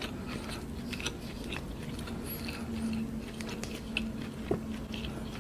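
A person chewing a mouthful of fried chicken drumstick, with scattered small mouth clicks and snaps.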